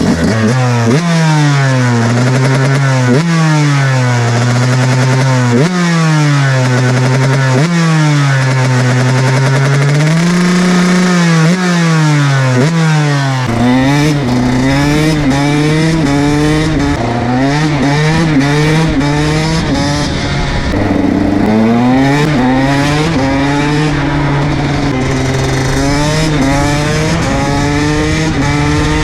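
KTM SX 125 two-stroke motocross engine under way: the revs repeatedly climb and then drop sharply as it shifts up through the gears. From about halfway the revs hold more evenly, with a low rumble added underneath.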